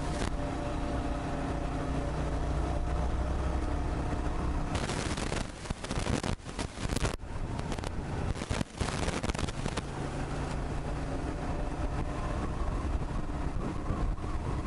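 Motorcycle engine running steadily while riding through city streets. About a third of the way in the engine note gives way for several seconds to an uneven rushing noise with dips and jumps, then the steady engine tone returns.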